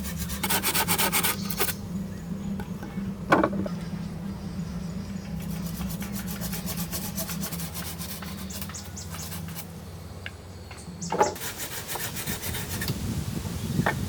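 A hand tool rasping on wood in several bursts of quick strokes, with a few sharp knocks between them.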